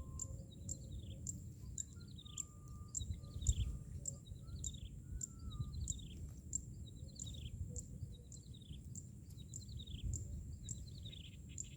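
A bird calling over and over in a steady series of short, high, falling notes, a little under two a second, with a few steadier mid-pitched whistles in the first half. A low rumbling outdoor background runs beneath.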